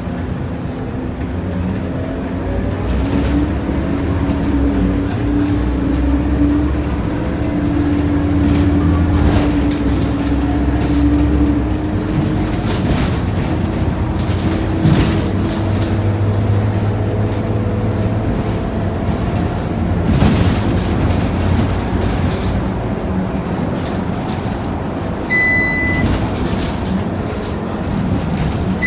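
Scania K230UB single-deck city bus heard from inside while driving: its five-cylinder diesel engine runs with a steady low rumble, its tone climbing slowly as the bus pulls away. A short electronic beep sounds about 25 seconds in.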